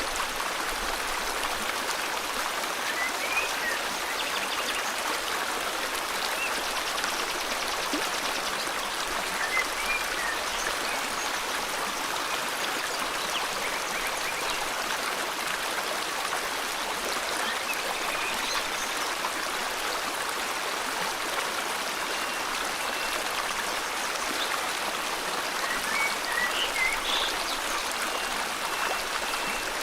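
River water flowing steadily, with a few faint, short bird chirps scattered through it.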